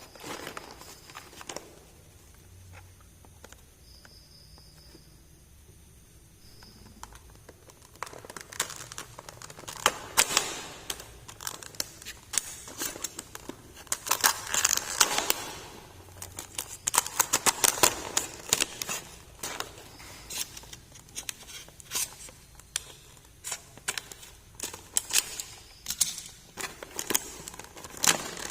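Plastic toy packaging crinkling and tearing as a miniature toy set is unboxed, with many quick clicks and rustles of handling. Fairly quiet for the first several seconds, then the crinkling and clicking become busy.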